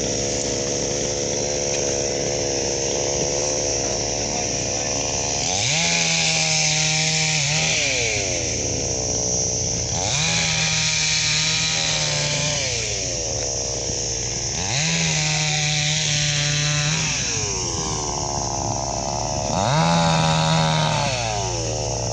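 A heavy vehicle's diesel engine revs up hard four times, each rise held for about two seconds before dropping back to a lower running speed.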